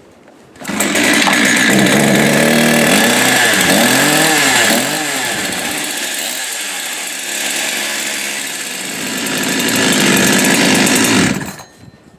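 Two-stroke chainsaw running: revved in a few quick throttle blips, then held at a steady high speed before it stops abruptly near the end.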